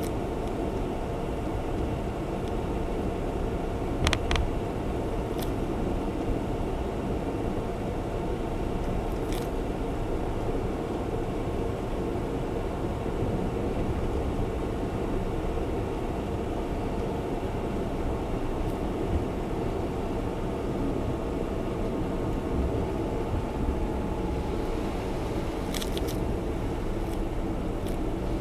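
In-cabin engine and road noise of a Honda Zest Spark kei car driving at a steady pace, with a few brief clicks about four seconds in and again near the end.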